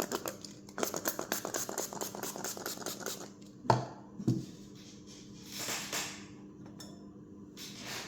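Quick scratching strokes for about three seconds, then two knocks around four seconds in. A spray bottle of alcohol hisses briefly about six seconds in and again near the end.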